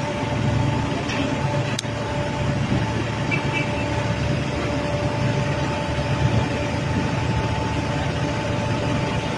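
A fishing boat's engine running steadily, a low rumble with a constant whine over it and a haze of noise, heard aboard. A single sharp click comes about two seconds in.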